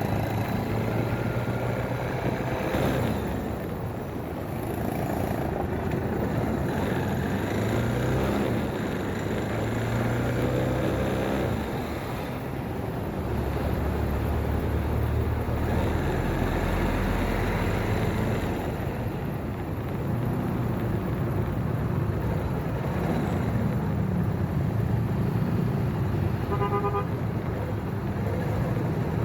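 Motorcycle riding through city traffic: the engine runs with revs rising and falling, over road and wind noise. Near the end a horn toots several times in quick succession.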